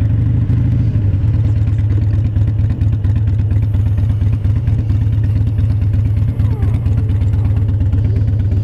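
Harley-Davidson Dyna Wide Glide's Twin Cam 88 V-twin running steadily at low road speed, a loud, deep, pulsing exhaust note heard from the rider's seat.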